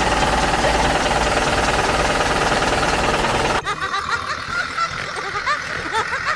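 A loud, steady, engine-like mechanical rumble, a cartoon sound effect, that cuts off suddenly about three and a half seconds in. A run of quick, high, squeaky chirps follows.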